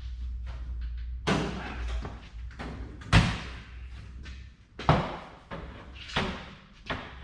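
About five separate sharp knocks and clanks of metal parts being handled and set down, a second or two apart, over a low steady hum that fades out about halfway through.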